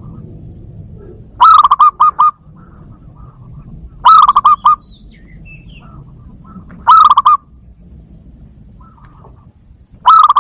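Zebra dove (perkutut) calling: four loud bursts of quick, rapidly repeated cooing notes, a few seconds apart. A faint low rumble lies under them.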